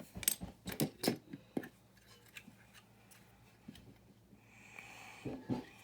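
Small plastic building bricks clicking and clattering as they are handled, with a quick run of sharp clicks in the first second and a half and a few softer knocks near the end.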